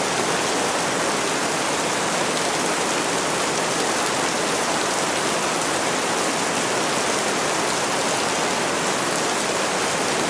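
Steady, dense rainfall: an even hiss with no individual drops standing out.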